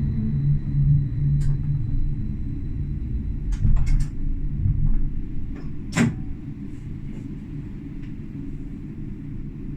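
Tram running along the track, a steady low rumble with several sharp clicks and knocks, the loudest about six seconds in; the running noise eases off a little in the second half.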